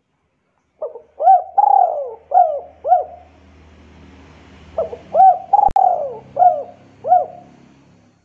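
A bird's cooing call: two phrases of about five low notes each, every note rising and falling in pitch, with a pause of a couple of seconds between the phrases. A single sharp click falls during the second phrase.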